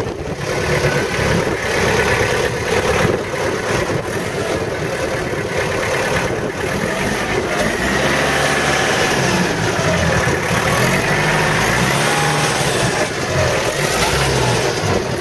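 Engine of a 36 hp Long Landtrac compact tractor running at a steady level, its low pitch wavering slightly in the second half.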